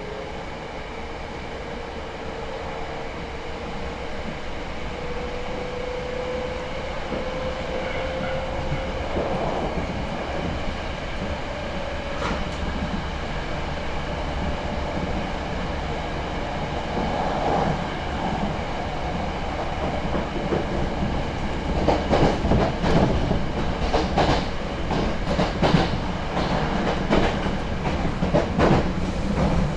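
Hankyu 6300 series electric train running, heard from inside the car. A motor whine rises slowly in pitch over the first dozen seconds as the train gathers speed, and in the last third the wheels clack repeatedly over rail joints.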